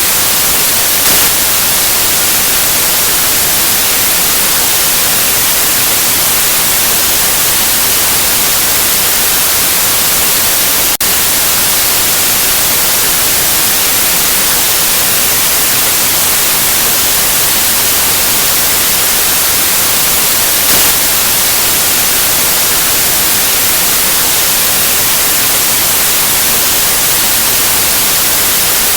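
Steady white noise: an even, loud hiss with no tones or rhythm, briefly dipping for an instant about eleven seconds in.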